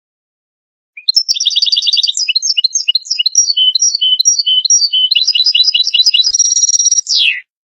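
European goldfinch singing one continuous phrase of quick twittering notes and fast trills, starting about a second in and ending with a falling slide.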